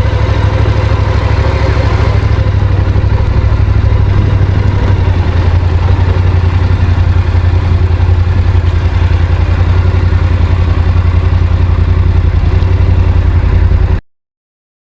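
Yamaha Ténéré adventure motorcycle engine running steadily at an even engine speed, a loud low rumble with a fast regular pulse; it cuts off abruptly near the end.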